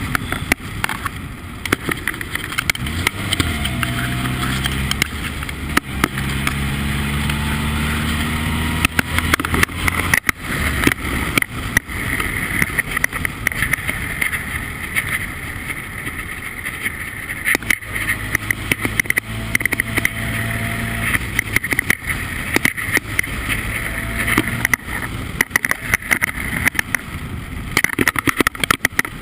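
Formula Ford race car engine running hard on track, its revs climbing twice as it pulls through the gears, with a steady high whine. Wind buffeting and frequent sharp knocks and rattles run over it.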